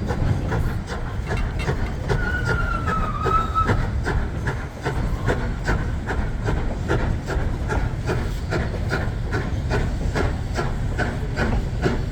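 Durango & Silverton narrow-gauge train heard from on board: a steady rumble of wheels on rail with a rhythmic clickety-clack over the rail joints, about three clicks a second. About two seconds in, a thin wheel squeal sounds briefly and dips slightly in pitch.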